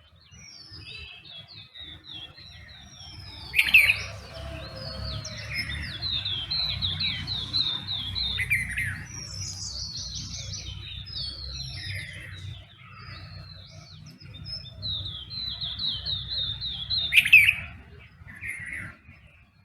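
Several songbirds singing and calling together in a dawn chorus: short high chirps and whistled notes overlap, with a fast run of repeated chirps twice and two loud sharp calls, one about four seconds in and one near the end. A faint low rumble lies underneath.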